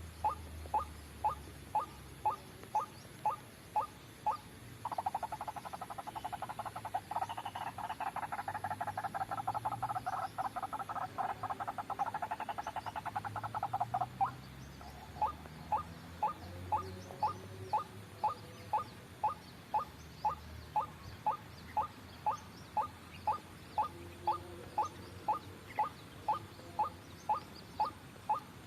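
White-breasted waterhen calling: a steady series of short, rising croaky notes about two a second. About five seconds in, a fast, dense rattling chatter takes over for about nine seconds, and then the single notes resume.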